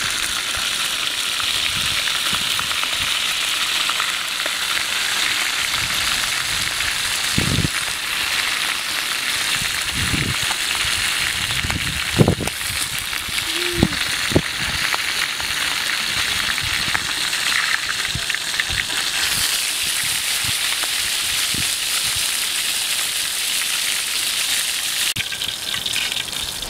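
Fish frying in hot oil in a wok over a charcoal stove: a steady sizzle, with a few dull knocks along the way.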